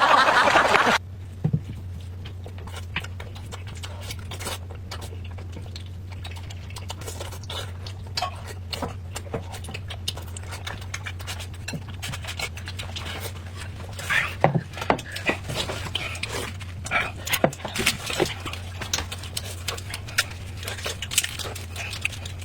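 Close-miked eating: irregular chewing and smacking mouth noises with small clicks, over a steady low hum, growing busier in the second half.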